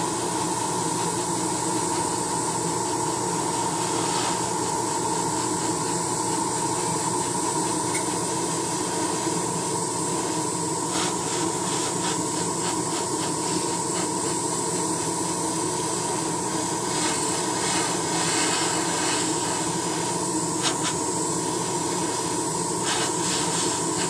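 Hobby spray booth's exhaust fan running steadily: a constant rush of air with a low hum. A few brief sharper hisses come in the second half.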